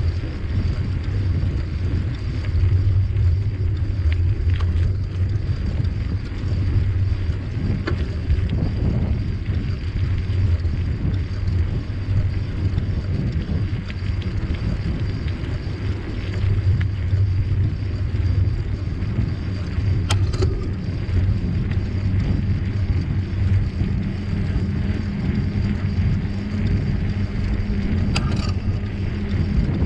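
Steady low rumble of wind and tyre noise from a bicycle being ridden, with a couple of brief rattles about two-thirds of the way in and near the end.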